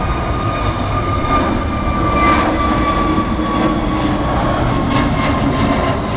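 Jet airliner engines running loud: a dense rushing noise with a steady whine that slowly falls in pitch.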